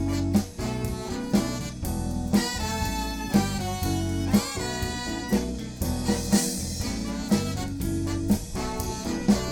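Live soul band playing an instrumental passage: horn lines over bass and drum kit, with a drum accent about once a second.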